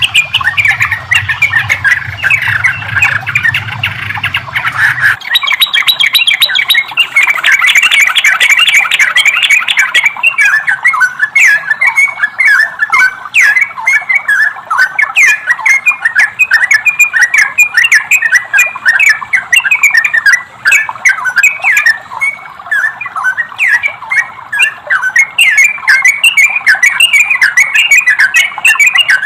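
Trucukan (yellow-vented bulbul) song used as a masteran training recording: a loud, fast chattering run of short repeated notes, several a second. A low hum runs under it and stops about five seconds in.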